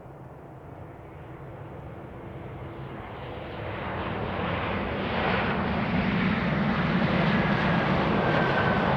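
Embraer ERJ-190 jet airliner, with two CF34 turbofans, coming in to land. Its jet noise grows steadily louder over the first five or six seconds as it closes in, then holds loud, with a faint thin whistle in the last few seconds.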